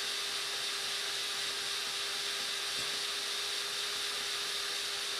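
Electric hand mixer running steadily at its highest speed, its beaters whipping eggs and sugar into foam.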